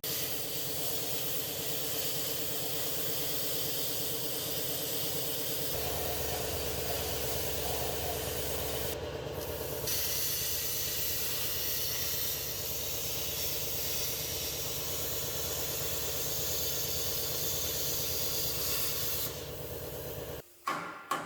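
Plasma cutter cutting sheet metal: a loud, steady hiss of air and arc, with a low hum that grows stronger about six seconds in. It cuts off shortly before the end.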